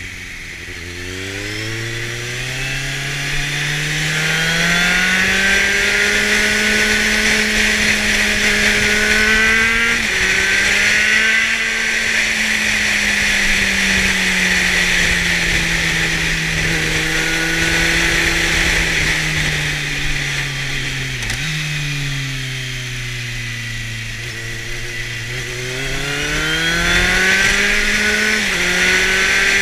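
Kawasaki Z750's inline-four engine through a LeoVince aftermarket exhaust, pulling under way with its pitch climbing. It dips briefly at a gear change about ten seconds in, then eases off slowly and picks up again, with another shift near the end. Wind rush runs underneath.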